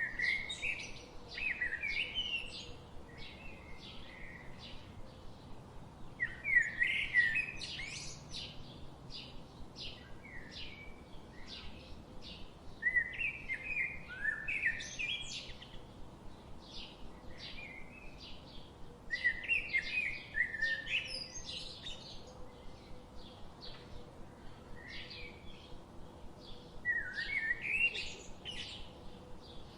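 Forest songbirds singing. One bird repeats a quick, loud warbling phrase about every six or seven seconds, and many short high chirps fill the gaps between.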